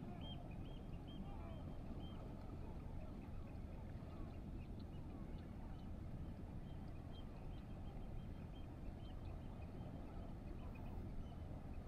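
Birds calling in runs of short, high chirps, one run at the start and another through the second half, over a steady low rumble.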